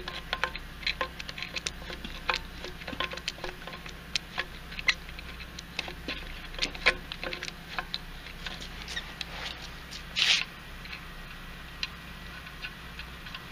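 Socket ratchet clicking in quick, irregular strokes while backing a rusted stud out of an air-cooled Volkswagen engine case. The clicks thin out in the second half, with a short scraping hiss about ten seconds in.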